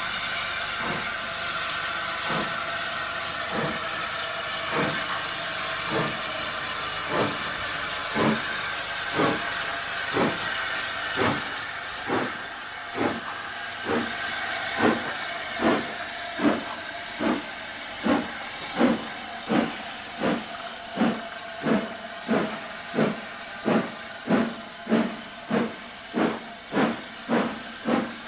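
Steam locomotive, a Hunslet Austerity 0-6-0 saddle tank, pulling away under a steady hiss of steam. Its exhaust beats start slow, about one a second, then quicken and grow louder to about two a second as it gathers speed.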